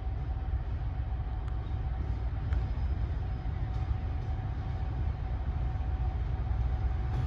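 A train running with a steady low rumble and a faint steady whine, with a few light ticks.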